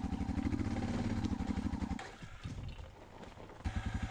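Motorcycle engine running with rapid, even firing pulses. About two seconds in it drops away to a low, ragged sound, then picks up again sharply near the end.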